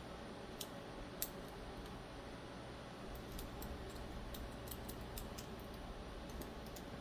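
Light metallic clicks and ticks of small folding-knife parts (washer, pivot pin, spring, blade) being handled and fitted: a couple of isolated clicks in the first second or so, then a quicker run of them from about three seconds in, over faint room noise.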